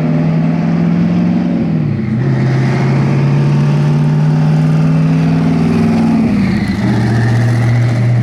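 Twin-turbo V8 engine of a Camaro at full throttle in a roll race, holding a steady note that drops in pitch twice, about two seconds in and again near six and a half seconds, as it shifts up through the gears.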